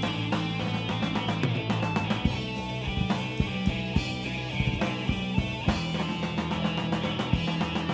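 Live punk rock band playing an instrumental passage: distorted electric guitar and bass over a driving drum kit, with no vocals.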